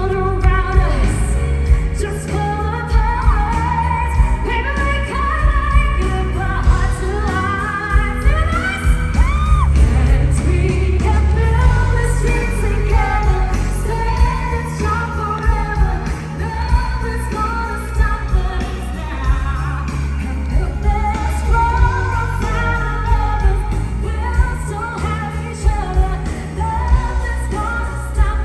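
Female vocalists singing a pop ballad medley over a full band, with steady bass and drums beneath the voices.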